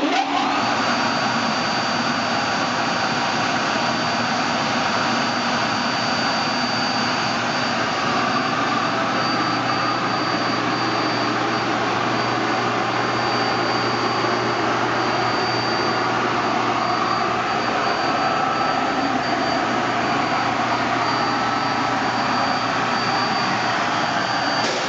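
Schmalz 3.3 kW regenerative (side-channel) vacuum pump switched on, coming up to speed within the first second and then running steadily: an even rushing air noise with a faint high whine and a low hum.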